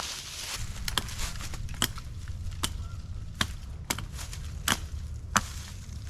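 A tool chopping into wood with sharp, separate blows, about eight in all, a little under one a second.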